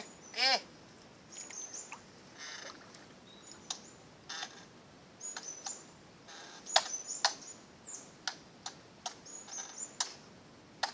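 Irregular sharp clicks and snaps scattered throughout, mixed with short high bird chirps. The loudest clicks come a little past the middle.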